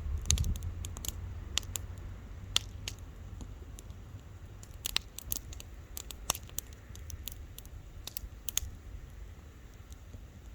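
Wood fire crackling: irregular sharp pops and snaps from burning wood, a few louder than the rest, over a low steady rumble.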